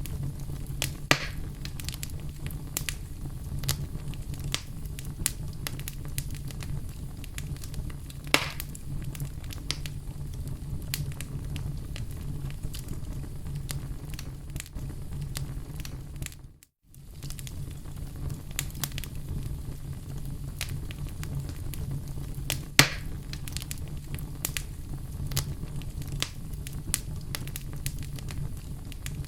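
Wood fire in a fireplace crackling steadily over a low rumble, with three louder pops spread through it. The sound cuts out for a split second about two-thirds of the way through, then the crackling resumes.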